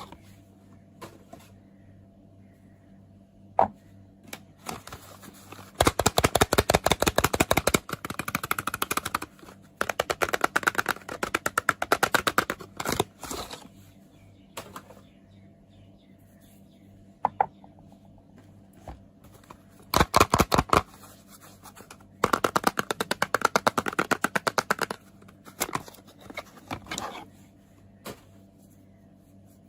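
Fingernails tapping fast on soap packaging in bursts of one to three seconds, separated by a few single taps and short pauses.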